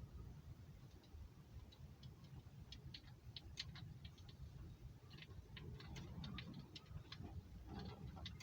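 Faint, irregular clicking and ticking as a tiny M12B four-stroke model gasoline engine is turned over by hand without firing.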